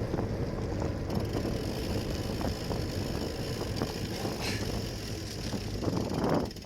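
Steady wind noise on the microphone and tyre rumble from a moving bicycle, with a faint low hum, dropping away sharply near the end.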